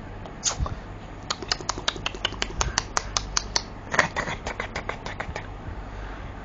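A baby smacking and sucking on a mango: a quick run of wet mouth clicks, several a second, lasting about four seconds.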